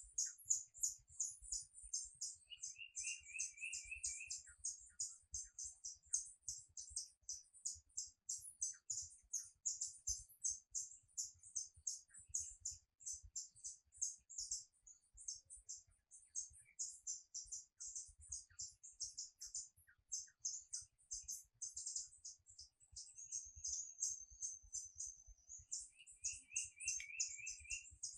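Birds chirping rapidly and continuously in high-pitched notes, with a lower, trilled phrase about two seconds long sung twice, near the start and near the end.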